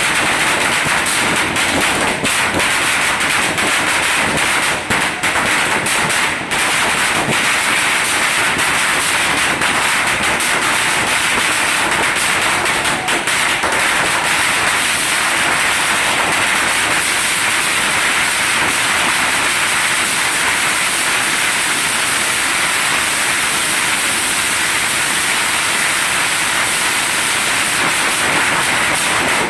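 Firecrackers going off in a dense, continuous crackle of rapid pops for the whole stretch, with no single large bang standing out, cutting off abruptly at the end.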